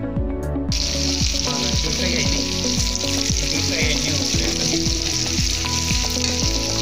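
Bitter gourd pieces deep-frying in a kadai of hot oil, sizzling steadily from about a second in while a spatula turns them. Background music with a steady beat plays throughout.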